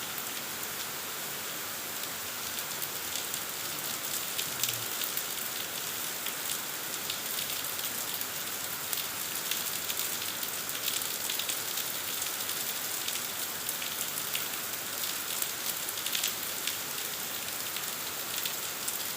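Heavy rain falling steadily, a dense even hiss with many fine drop splashes.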